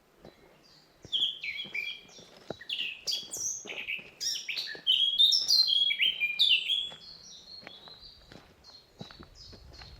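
Forest songbirds singing: a rush of high chirps and down-slurred whistled notes begins about a second in, busiest and loudest in the middle, then thins to fainter notes after about seven seconds.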